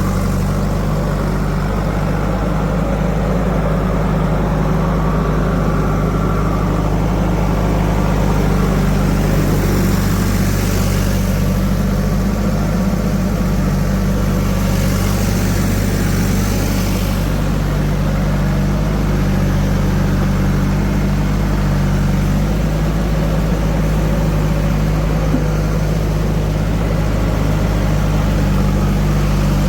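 Heavy diesel machinery engine running steadily with a low, even note, with two brief stretches of hiss partway through.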